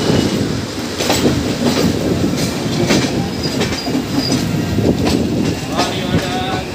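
Passenger train coaches rolling past on the adjacent track at close range: a loud, steady rumble of wheels, clattering over rail joints with sharp clicks and a few brief high wheel squeals.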